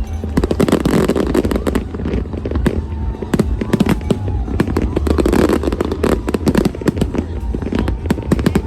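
A large fireworks display going off, with dense, rapid bangs and crackles overlapping one another without a break.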